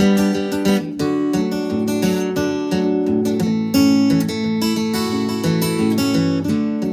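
Acoustic guitar strummed: an instrumental break between sung verses, steady chords with regular strokes.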